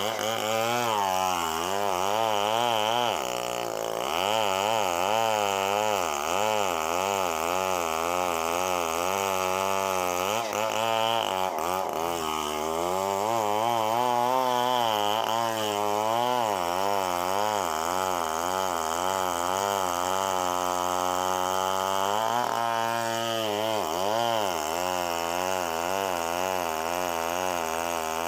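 Chainsaw engine running steadily, its pitch rising and falling over and over.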